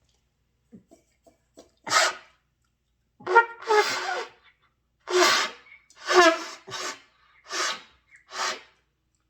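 Beginner blowing into a trumpet in about seven short blasts, mostly airy and sputtering, a few catching a brief note that breaks off at once: the player cannot yet hold a steady lip buzz.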